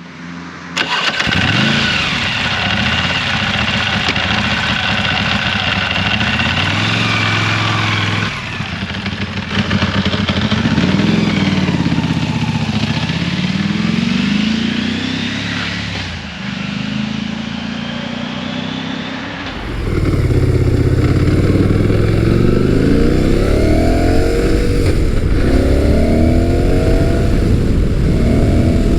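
Big-bore motorcycle engine accelerating through the gears, its pitch climbing and dropping back at each shift. It gets louder about two-thirds of the way in, where the runs up through the gears come in quicker succession.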